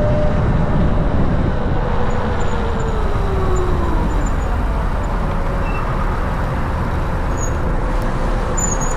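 Wind rushing over the microphone while riding a Land Moto District electric motorcycle. Under the wind, a faint whine glides down in pitch over about three seconds and then holds level.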